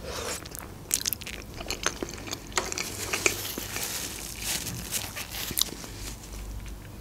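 A person chewing a mouthful of food close to the microphone, with many small scattered mouth clicks.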